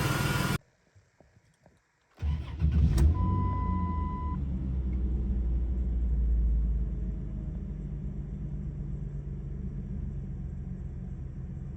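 2000 Chrysler 300M's 3.5-litre V6 engine: its sound cuts off abruptly about half a second in, a couple of faint clicks follow, then the engine starts about two seconds in with a brief rev flare and settles into a fast cold idle that drops lower about seven seconds in. A steady beep sounds for about a second just after the start.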